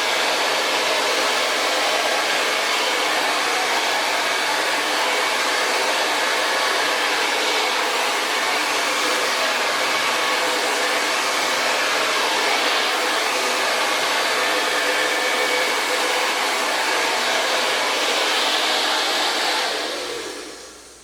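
A hair dryer blowing steadily as hair is blow-dried: an even rush of air with a faint motor whine. Near the end it is switched off and the sound dies away over a second or so.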